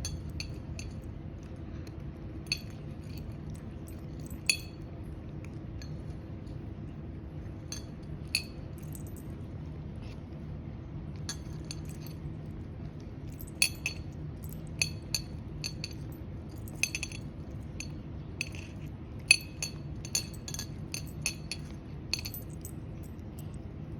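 A cat eating, with sharp clicks and crunches in irregular clusters, more frequent in the second half. A steady low hum runs underneath.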